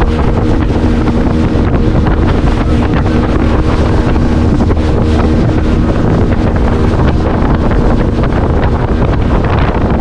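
Speedboat engine running steadily under way, its note unchanging, with heavy wind buffeting on the microphone.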